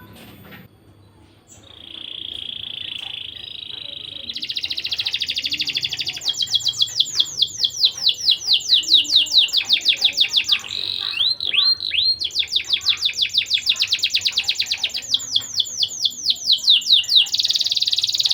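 Domestic canary singing a long, continuous song of fast trills and rolls. It starts about two seconds in, runs through rapid repeated notes that each sweep downward, has a few slower looping notes about halfway, and ends on a steady buzzy trill.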